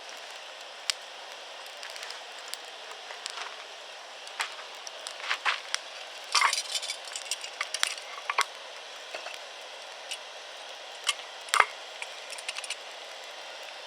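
Wood campfire crackling: irregular sharp pops and snaps over a steady hiss, with a quick flurry of pops about halfway through and one loud snap later on.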